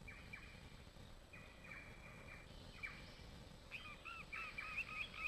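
Oriental Shorthair kittens mewing, faint and high-pitched: a few drawn-out cries, then from near the middle a quick run of short rising-and-falling mews, several a second.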